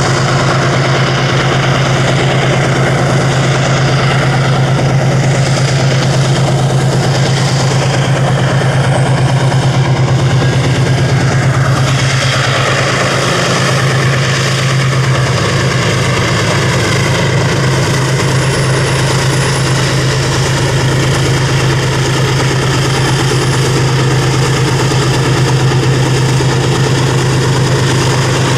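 A steady, loud mechanical hum from an engine or motor, with one falling glide in pitch about twelve seconds in.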